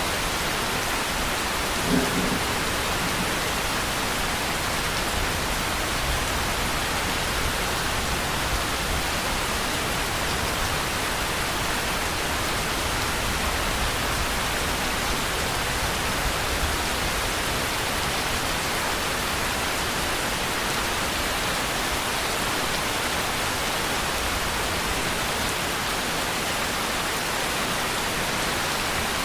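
Steady heavy rain, an even hiss with a low rumble underneath. There is a brief thump about two seconds in.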